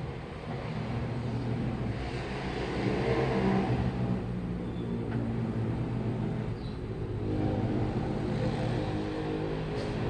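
Washing machine running: a steady motor hum with a churning, swishing wash that swells twice and eases back.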